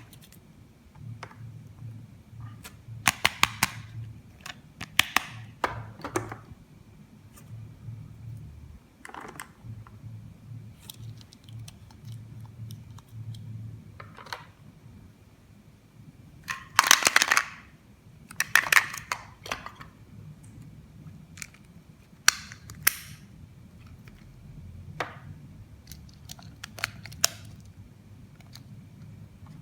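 Hands handling plastic toy pieces and packaging: scattered sharp clicks and taps, with several short rustling bursts, the loudest a little past the middle.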